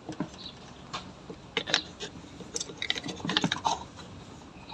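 Light clicks and taps of small carburetor parts being handled, as the automatic choke housing and linkage are worked by hand; a quick cluster of clicks in the middle.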